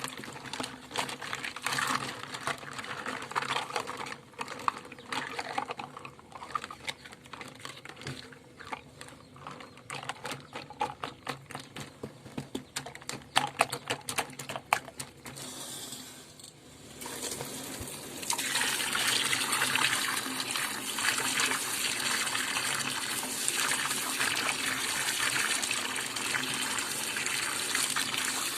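Small plastic toys clattering and clicking against one another in water, with irregular knocks. A little past halfway, water starts gushing steadily from a tap.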